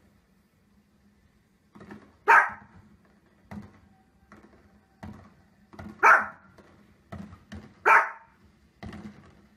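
A small fluffy dog barking: three loud, sharp barks, a couple of seconds apart, with fainter short sounds in between.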